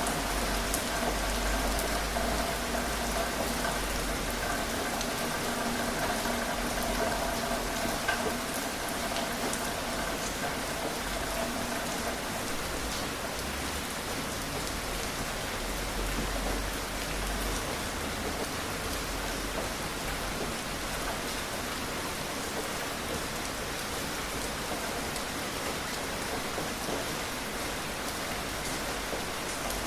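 Steady rain falling, a continuous hiss of rain on surfaces with scattered individual drops.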